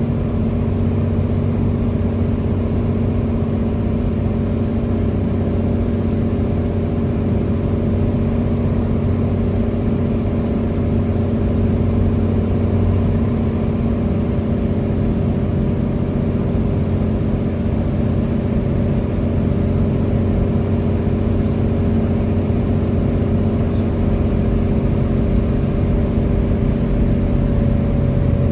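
Cessna 206 Stationair's piston engine and propeller running with a steady drone, the pitch and loudness rising slightly near the end.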